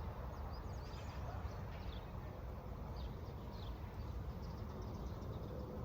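Small birds chirping: many short, high notes scattered through, over a low steady rumble of outdoor background noise.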